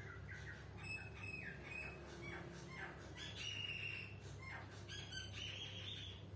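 Bird calling repeatedly: short chirps and falling notes, with two longer, higher calls about three and five seconds in, over a low steady hum.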